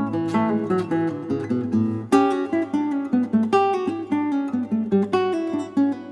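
Acoustic guitar music: a run of plucked notes, with a strong new attack about two seconds in.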